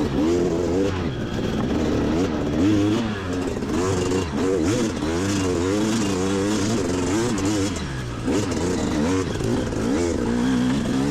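Dirt bike engine revving up and down again and again as the throttle is opened and rolled off, its pitch rising and falling about once a second, with a short easing off near the end.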